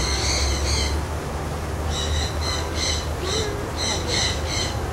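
A bird calling over and over in short, high notes: one longer call at the start, then a run of calls about two a second from about two seconds in, over a steady low rumble.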